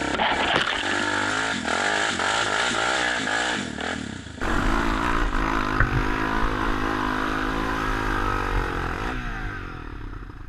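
Off-road motorcycle engines revving, the engine note rising and falling repeatedly, then held steadier after an abrupt change about four seconds in.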